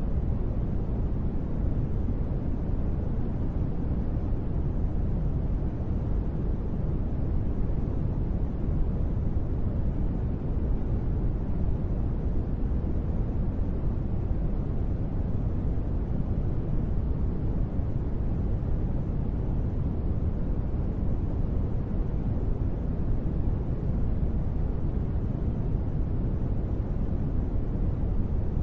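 Steady, deep rushing white noise made from gentle rain, with no separate drops or patter to pick out and no change in level.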